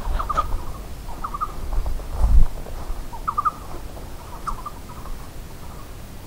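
Bird calls: short chirping notes in quick groups of two or three, repeated every second or so and dying away after about five seconds. A low thump sounds about two and a half seconds in.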